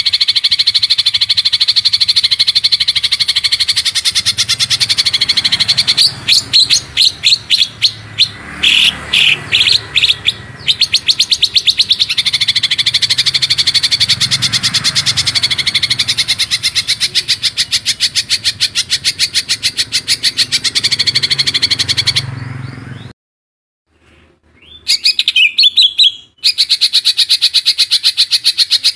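A songbird masteran (tutor song) recording: a very fast, rolling trill of high notes, broken for a few seconds by slower, separate chirps. Near the end it cuts out briefly, then comes back with a fluttering phrase and the fast trill again.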